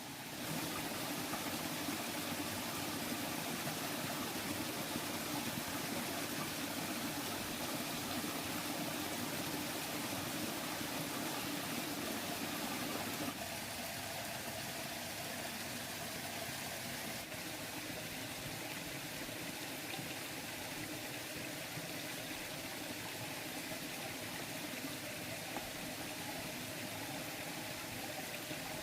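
Stream water running steadily over rocks, with the sound shifting slightly about halfway through.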